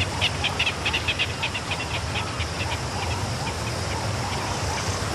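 A bird calling: a rapid series of short, high notes, about five or six a second, that fade away over about three seconds, over a steady background hiss.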